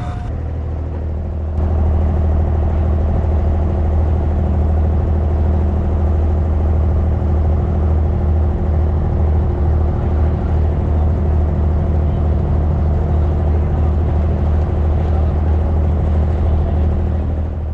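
Abra water taxi's diesel engine running steadily under way with a low, even drone, getting louder about a second and a half in.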